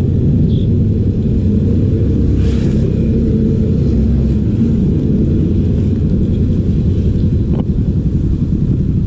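Loud, steady low rumble of street traffic, with faint engine tones wavering through it.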